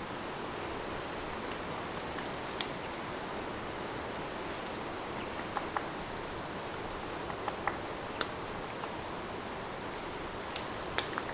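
Steady rain ambience with scattered drip-like ticks, and high-pitched insect trills coming in short bursts throughout.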